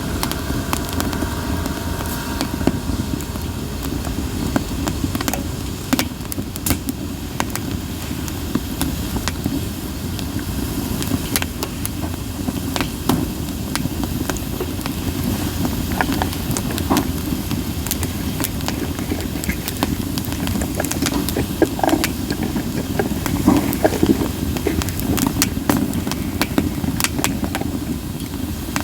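Campfire of split sawtooth oak (kunugi) logs burning, with a steady low rumble of flame and scattered sharp crackles and pops throughout.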